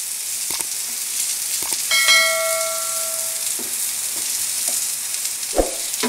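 Pumpkin-leaf-wrapped egg parcels sizzling in hot mustard oil in a nonstick frying pan, with a steady hiss and a spatula knocking against the pan several times as they are turned. A single bell-like ding rings out about two seconds in and fades over a second or so.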